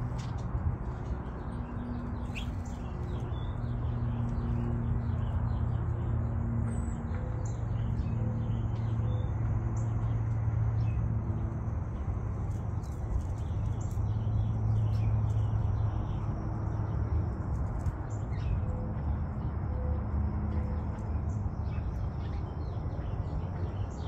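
Scattered small-bird chirps over a steady low drone that is the loudest sound throughout. A thin high whistle holds from about a third of the way in.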